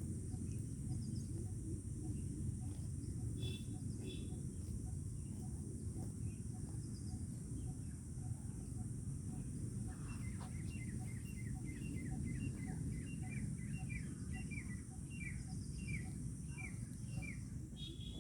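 Birds calling outdoors: from about ten seconds in, a bird gives a run of short, repeated, downward-sliding chirps, a few a second. Under it run a steady high drone and a low rumbling noise.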